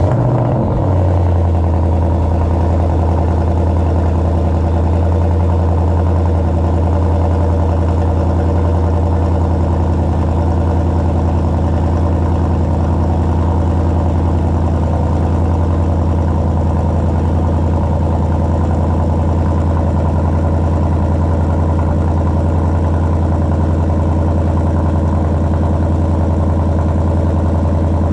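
Ford Mustang 5.0-litre V8 just fired on a cold start, flaring briefly as it catches and then settling into a steady idle.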